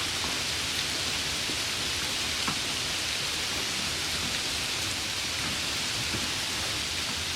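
Steady summer rain falling, an even hiss with a few faint drop ticks scattered through it.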